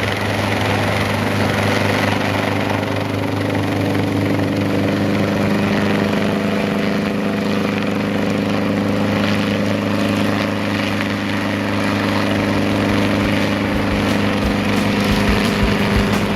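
Hughes 300 (Schweizer 269C) light helicopter running steadily, its four-cylinder piston engine and rotors giving a constant, even drone.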